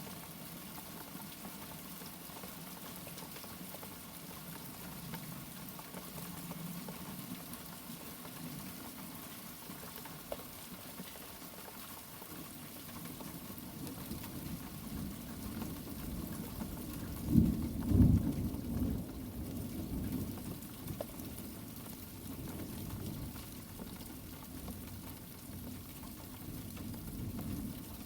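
Steady rain falling, with a roll of thunder swelling up about halfway through, peaking in two loud low claps about two-thirds of the way in, then rumbling away.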